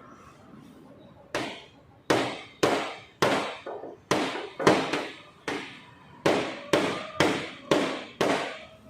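A run of about fourteen sharp knocks, roughly two a second, each fading quickly.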